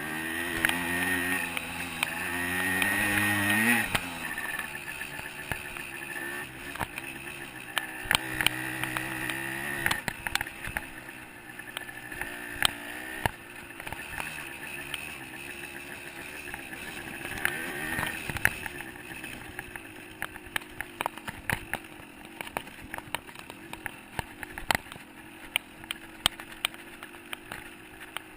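125 cc two-stroke dirt bike engine revving up over the first four seconds, then running at lower revs, with frequent sharp clicks and knocks throughout.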